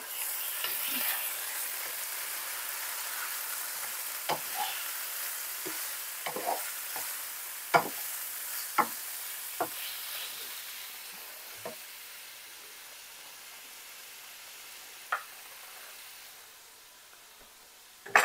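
Chicken cubes, kielbasa slices and onion sizzling in olive oil in a skillet while a wooden spoon stirs them, with a few sharp knocks and scrapes of the spoon against the pan. The sizzle gets quieter over the second half.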